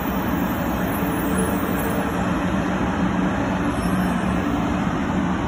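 JR West 500 series Shinkansen electric train creeping into the station at low speed, giving a steady hum and rush of running noise.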